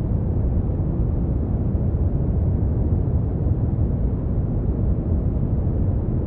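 Steady brown noise: an even, deep rumbling hiss, strongest in the bass and fading out toward the treble.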